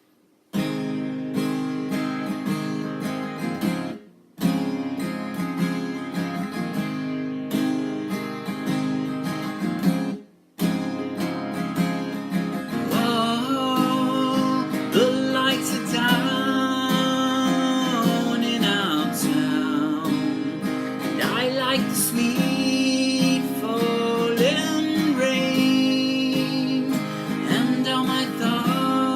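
Instrumental music: acoustic guitar strumming, with two brief breaks in the first ten seconds. A gliding melody line joins over the guitar about halfway through.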